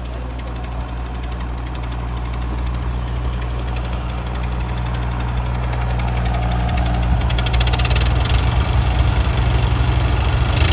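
Diesel tractor engine running, with a steady low firing note that grows steadily louder.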